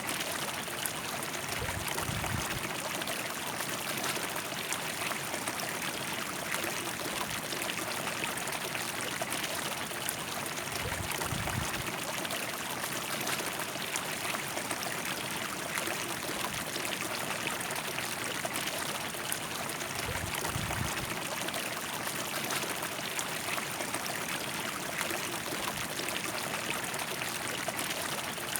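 River water flowing steadily over rocks, a continuous rushing and trickling, with a few brief low rumbles.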